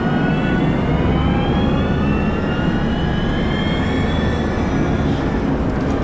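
Caterpillar 972M XE wheel loader running: a steady low diesel rumble with a high whine that slowly rises in pitch.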